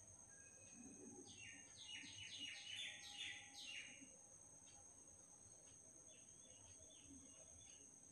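Faint bird calling: a quick run of about ten short, high chirps, some four a second, from about one to four seconds in, with a fainter run of notes later.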